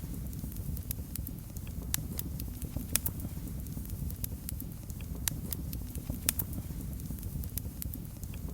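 Wood fire burning in a fireplace: a steady low rumble of the flames with sharp, irregular crackles and pops, a few louder snaps scattered through.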